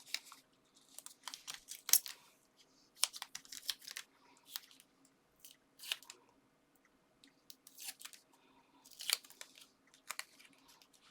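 Foam adhesive pads being peeled from their backing and pressed onto card, with irregular small rustles, crackles and clicks of paper and card being handled.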